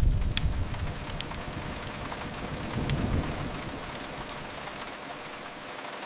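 Steady rain hiss mixed with a crackling fireplace, the fire giving scattered sharp snaps. A low rumble is strong at first, dies down within the first second and swells again briefly around three seconds in.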